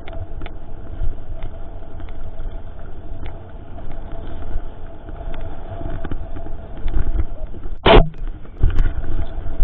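Mountain bike riding down a forest trail heard through a GoPro's own microphone: low rumble of tyres over rough ground with wind on the mic and scattered rattles. About eight seconds in, a single loud sharp knock as the GoPro strikes a tree.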